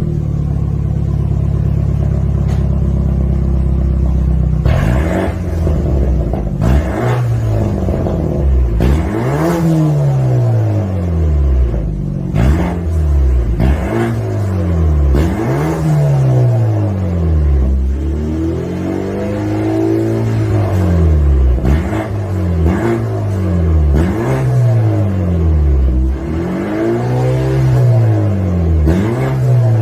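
BMW F30 320i's turbocharged four-cylinder engine running through an aftermarket valved (variable) full exhaust with sport resonator. It idles steadily for about four seconds, then is free-revved again and again, each rev rising and falling in pitch every second or two.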